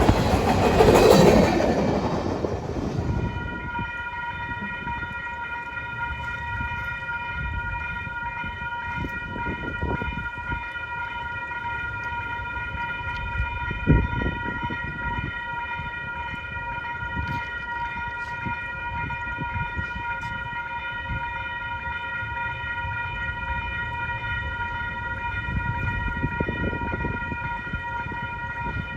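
A passing train, its rumble dying away about three seconds in. Then a steady high whine of several tones holds, with a single knock about halfway through.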